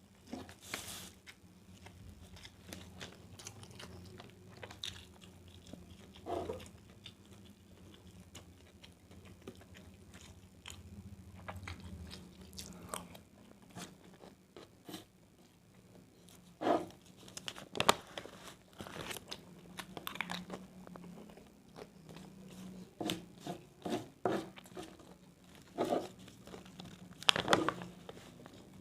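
Close-up eating sounds: a person chewing a mouthful of fried rice, with irregular wet smacks and crunches, a few louder ones about two-thirds of the way in and near the end.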